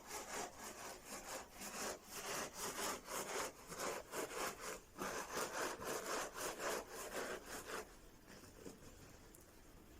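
Okra pods being rubbed inside a cloth to scrub off their fuzz, in quick repeated rubbing strokes that stop about eight seconds in.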